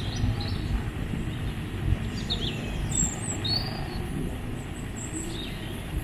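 Birds giving short, high chirps in small clusters, over a continuous low rumbling noise with a few louder bumps.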